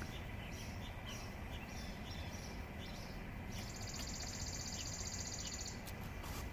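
Quiet outdoor background hiss with a high, rapid, finely pulsed trill starting about three and a half seconds in and lasting about two seconds.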